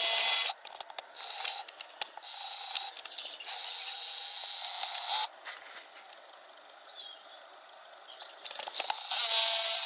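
Camera zoom motor whirring in several short stop-start runs, each starting and stopping abruptly at a steady level, with a few faint bird chirps in the gaps.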